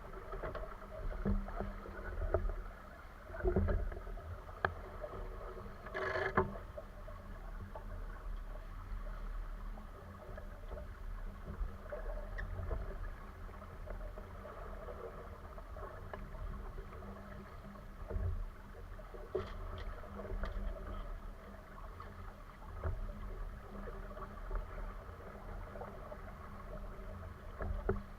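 Steady low rumble of a sailboat under way, with water and wind on the hull and microphone, a few scattered clicks and one sharper knock about six seconds in.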